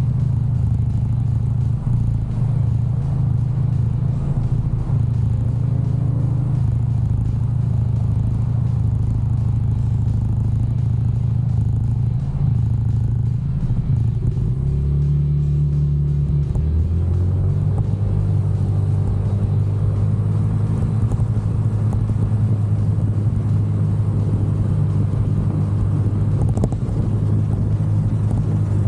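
Genuine Buddy 170i scooter's single-cylinder engine running steadily under way, with wind rumble. The engine note changes about halfway through and then settles at a new steady pitch.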